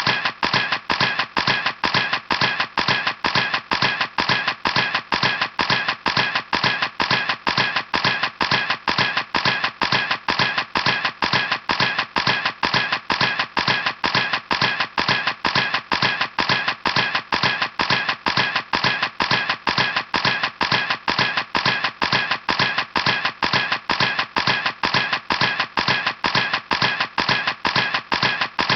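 Camera shutter clicking over and over in an even rhythm, about three clicks a second.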